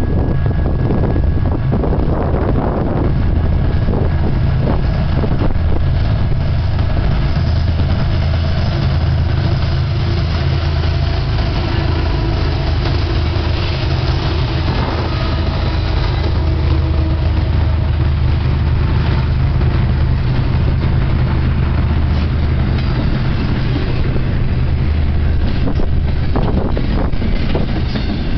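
Freight train's diesel locomotives passing close by with a steady low engine rumble, then double-stack container cars rolling past with wheel clatter near the end.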